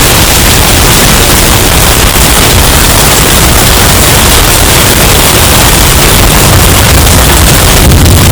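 Hurricane wind sound effect, bass-boosted until it distorts: a steady, very loud wall of noise, strongest in the bass, turning more crackly near the end.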